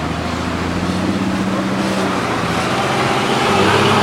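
Heavy truck's diesel engine running steadily, getting louder a little past three seconds in.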